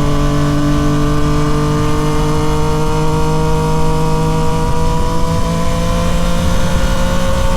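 Yamaha MT-09 SP's 890 cc inline-three through a Toce full exhaust, pulling steadily in one gear, its note rising slowly as the bike gains speed, over a low rush of wind and road noise.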